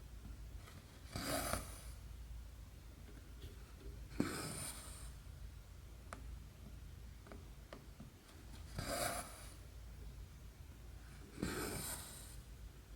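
Embroidery thread being pulled through 11-count cross stitch canvas, a short rasp four times, with faint ticks of the needle between pulls.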